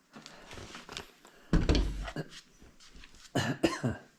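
Plastic chick brooder heat plate being handled: a thump about one and a half seconds in, then a few quick knocks and clicks near the end.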